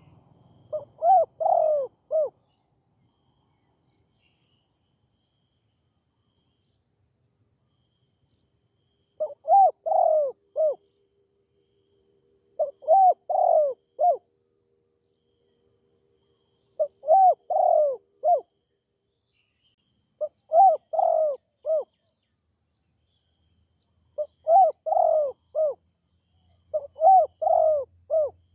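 Spotted dove cooing: seven phrases of several rolling coos each. A long pause follows the first phrase, then the phrases come every three to four seconds.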